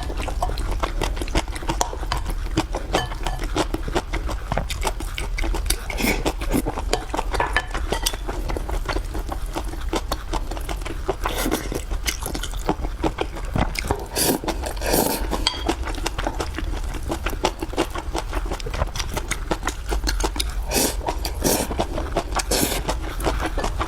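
Close-miked chewing and wet mouth sounds of someone eating, with dense, irregular smacks and clicks over a steady low hum.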